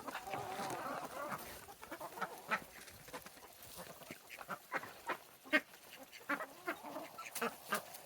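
Domestic ducks quacking and chattering, one long wavering call in the first second or two, then short scattered calls mixed with many brief sharp ticks.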